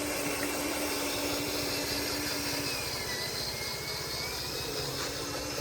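Radio-controlled construction machine running: a steady motor hum with a thin whine that dips in pitch about halfway through and then rises again.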